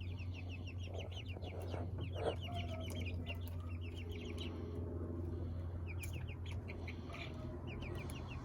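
Young chickens peeping in quick runs of short high notes, over a steady low hum. A sharp knock sounds a little over two seconds in.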